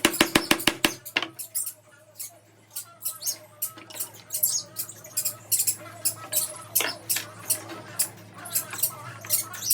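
Small pet birds chirping and squeaking in quick, high calls, with a rapid run of clicks at the very start.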